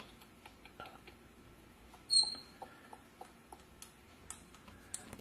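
A Senegal parrot gives one short, high chirp about two seconds in, amid a few faint scattered clicks.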